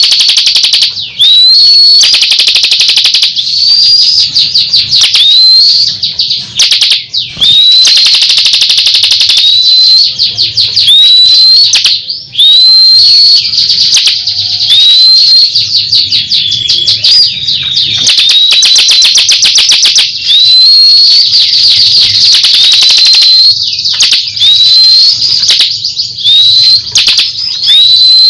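A songbird singing loudly in repeated phrases about every two seconds, each a rapid chattering trill that ends in a sharp upward-sweeping whistled note.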